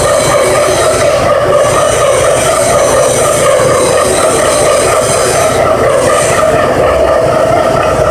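CNC milling machine cutting a cast-iron pillow block housing: a loud, steady machining noise with a strong ringing tone from the tool in the metal.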